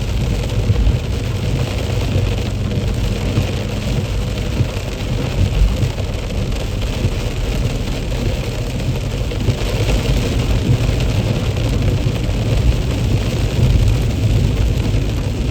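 A car driving in heavy rain: a steady low rumble of engine and road, with an even hiss of rain and wet tyres.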